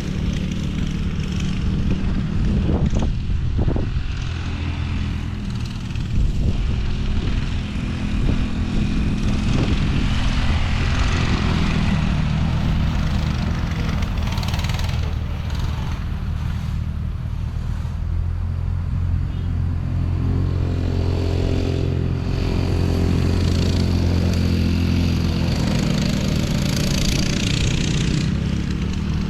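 Engine of a small off-road vehicle running steadily under way, its pitch shifting a little as the throttle changes.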